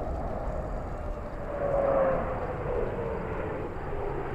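Turbojet of a Canadair CT-114 Tutor jet passing overhead: a steady rush with a whine that falls in pitch as it goes by, loudest about two seconds in.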